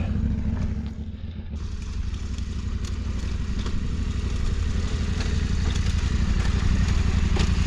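KTM 1290 Super Adventure R's V-twin engine running at low speed on a rocky trail, with a few light clatters from stones; it dips about a second in, then gradually grows louder.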